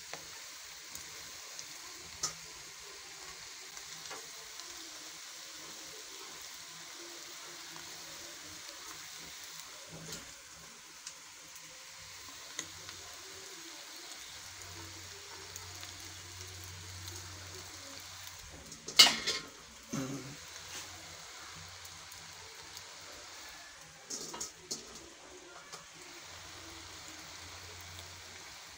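Boiled noodles sizzling as they fry in a metal pot of spicy chicken masala on a gas stove, a steady hiss with a few light clinks. About two-thirds of the way through there is one sharp knock, the loudest sound, and a few more knocks follow later.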